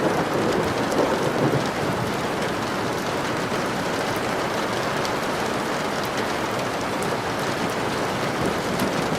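Steady, heavy rain falling, with drops ticking through the hiss. A low rumble of thunder fades out in the first couple of seconds.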